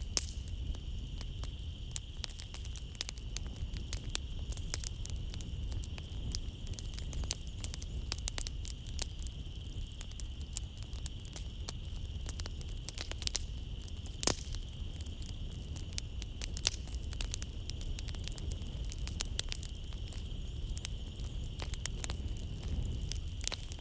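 Wood fire in a fireplace crackling, with frequent irregular sharp pops over a low steady rumble of the flames. A steady high chirring of night insects runs underneath.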